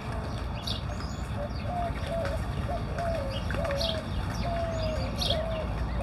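Birds calling: a string of short, repeated mid-pitched call notes, with scattered higher chirps over them and a steady low rumble underneath.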